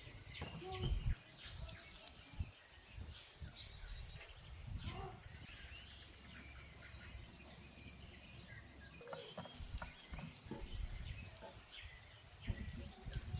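Outdoor ambience: scattered short bird chirps over a low rumble, with a few soft knocks.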